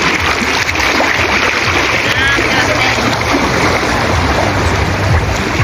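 Steady rush and splash of water at a busy water park, with distant voices and shrieks mixed in.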